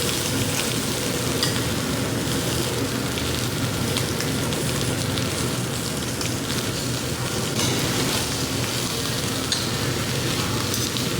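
Lamb meat sizzling and crackling as it grills, a steady hiss of fat spitting with scattered small pops.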